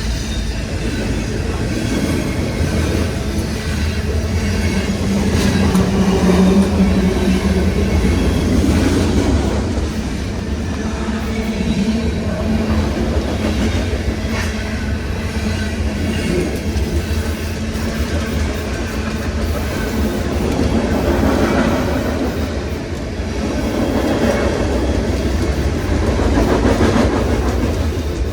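A train rolling past: a steady loud rumble of wheels on rails with some clacking over the rail joints.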